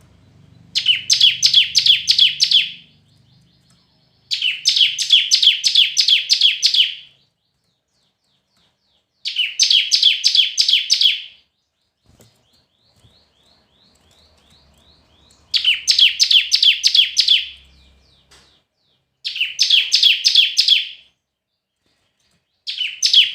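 Bar-winged prinia (ciblek) singing: six loud bursts of rapid, evenly repeated sharp chipping notes, each lasting two to three seconds, with a few faint notes in the pauses between them.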